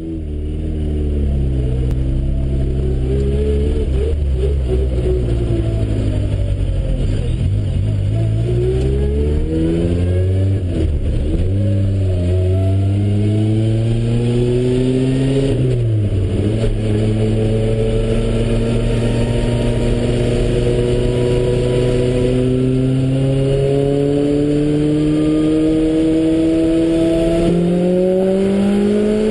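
Supercharged Lotus Exige's four-cylinder engine under hard acceleration, heard from inside the cabin. The revs climb and then drop sharply at several gear changes in the first quarter minute. After that they rise slowly and steadily in a high gear.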